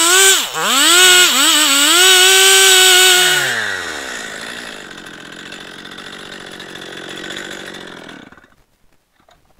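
Gas chainsaw on a chainsaw mill running at high revs, dipping briefly about half a second in, then the throttle is let off: the revs fall away to a lower idle and the engine stops about 8.5 seconds in.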